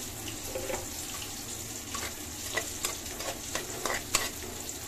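Dried fish and green chillies sizzling in oil in a blackened wok-style pan, a steady frying hiss. A metal spatula stirs them, scraping and clicking against the pan, with the sharpest click about four seconds in.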